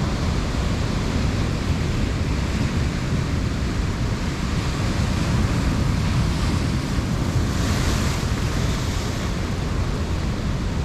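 Ocean surf washing over rocks, with wind buffeting the microphone and a louder hiss of breaking water about eight seconds in.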